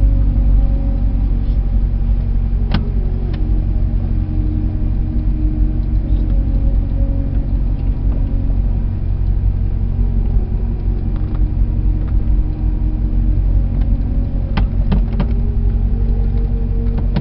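Car engine running at low speed with a steady low note that wavers slightly in pitch. A few sharp clicks come about three seconds in and again near the end.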